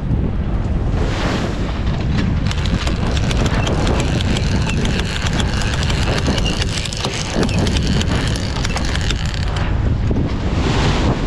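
Wind buffeting the microphone aboard a sailboat under way in rough, bumpy water, with the wash of the sea and many small knocks and ticks. Surges of hiss about a second in and again near the end.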